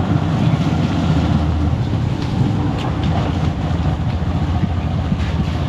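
Motorcycle running steadily while being ridden along a road, with an even low rumble.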